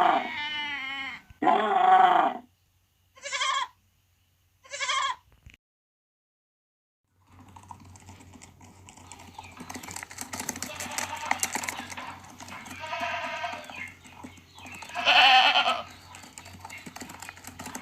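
Goats bleating: two loud, drawn-out bleats at the start and two short, higher bleats a few seconds in, then after a pause of about two seconds, repeated bleats from several goats over a noisy background with a low hum.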